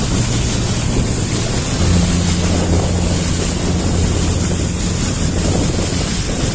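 Motorboat under way: a low engine drone that shifts slightly in pitch about two seconds in, under rushing water and heavy wind buffeting on the microphone.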